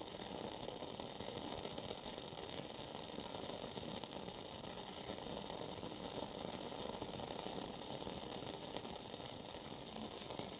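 Wooden-wick candle burning with a continuous fine crackle, like a small fireplace.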